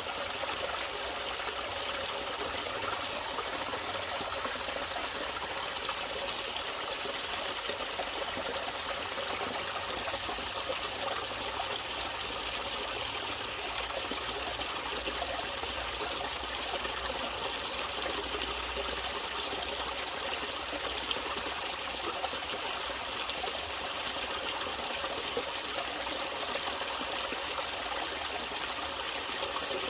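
Natural water trickling and flowing steadily, an even rushing with no breaks.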